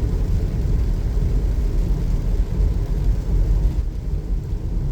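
A car driving on a wet road in the rain: a steady, low rumble of tyres and engine.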